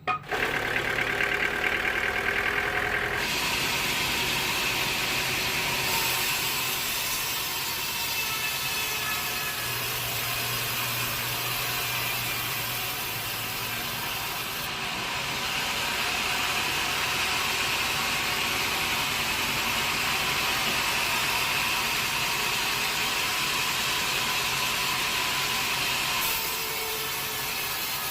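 Sawmill saw running and cutting through a teak log: a steady mechanical noise with a high whine that strengthens and eases several times as the cut goes on.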